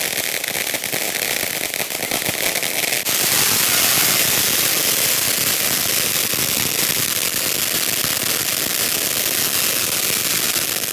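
Consumer fireworks going off in a rapid, continuous crackle that grows denser and louder about three seconds in.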